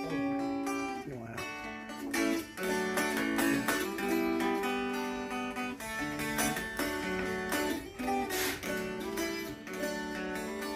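Mountain dulcimer played in D-A-A tuning: a melody of plucked notes over a steady low drone.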